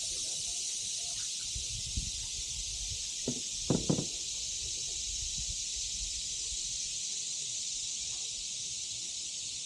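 Steady hiss of flowing river water running past a canoe, with a few short knocks about three to four seconds in.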